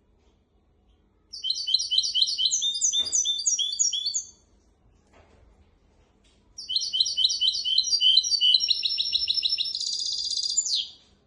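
Hybrid finch singing, two phrases of quick repeated whistled notes. The second phrase ends in a fast buzzy trill. This is a tutor song for teaching young goldfinches and canaries.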